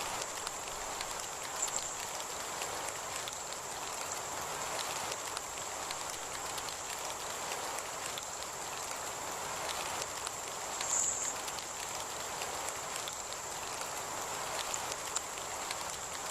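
Heavy rain falling steadily: an even hiss full of small drop ticks. A thin high whine runs under it throughout and swells briefly twice.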